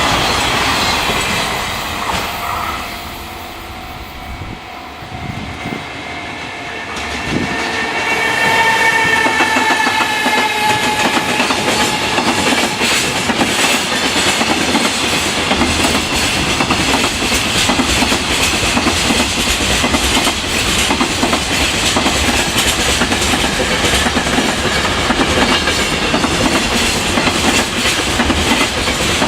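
Freight train passing at speed. About seven seconds in, the locomotive arrives with a motor whine that falls in pitch as it goes by. The wagons follow with a steady clickety-clack over the rail joints.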